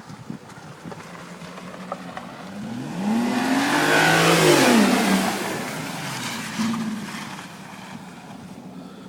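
Porsche Cayenne Turbo's twin-turbo V8 accelerating hard past. The exhaust note climbs in pitch, is loudest about four to five seconds in, then drops away as the car goes by. A low steady hum sits underneath.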